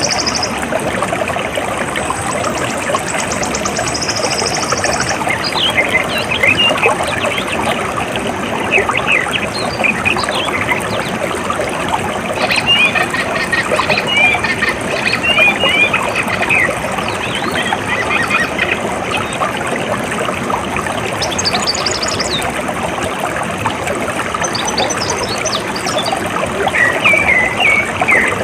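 Steady flowing, trickling water with birds chirping over it; a high buzzing trill runs for the first few seconds and comes back briefly later.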